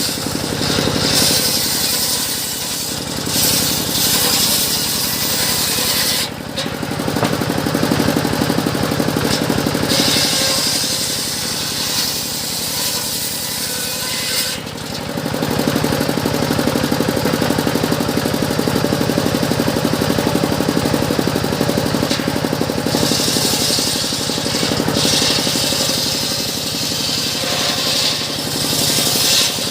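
Circular sawmill running with a steady machine drone while its blade cuts teak, the cutting coming and going as a loud high hiss. The cutting is heard around the start, again about ten to fifteen seconds in, and from about twenty-three seconds to near the end.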